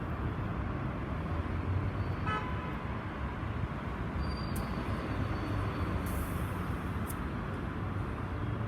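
Steady road-traffic rumble, with a short vehicle horn toot about two seconds in.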